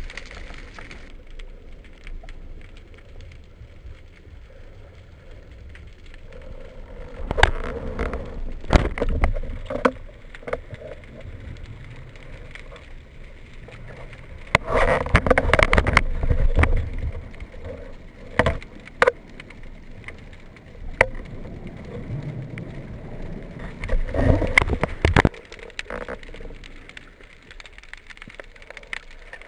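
Muffled underwater noise with irregular sharp clicks and knocks and several louder rushes of bubbling and water movement, the longest about halfway through.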